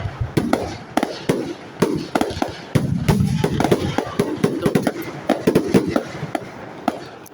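Fireworks display: a rapid string of sharp bangs and crackles from bursting shells, with deeper booms among them. It tails off near the end.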